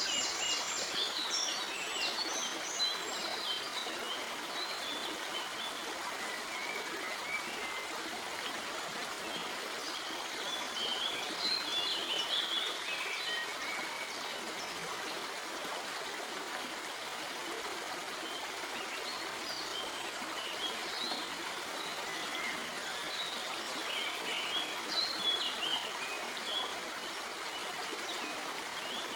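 Stream water flowing and trickling over rocks in a steady rush, with songbirds chirping intermittently, most at the start and in clusters midway and near the end.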